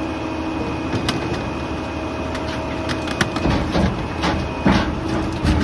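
Rear-loader garbage truck running with its packer hydraulics working, a steady engine hum with a thin whine. Flood debris knocks and cracks in the hopper, the knocks busier and louder in the second half as the load is crushed.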